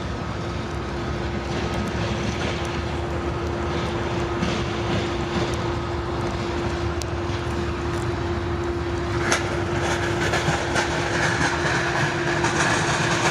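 A train rolling past: a steady rumble of wheels on rail with a sustained hum and scattered clicks. About nine seconds in, a higher hiss grows louder.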